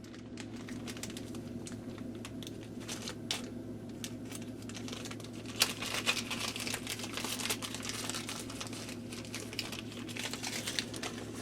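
Crinkling plastic packaging and small irregular clicks as replacement 2.5-volt, 200-milliamp mini Christmas light bulbs are handled and sorted, busiest a little past the middle, over a steady low hum.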